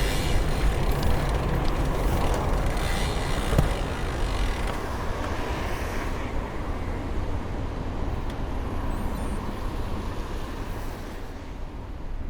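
Road traffic noise: a steady low rumble with hiss over it, the hiss dying away about halfway through as a vehicle passes off.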